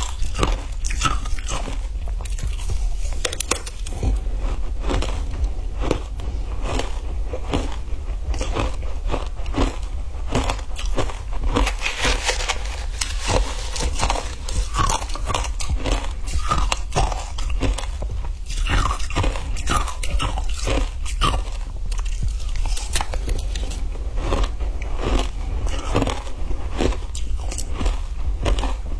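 Frozen ice being bitten and crunched between the teeth and chewed: a continuous run of sharp crunches, several a second.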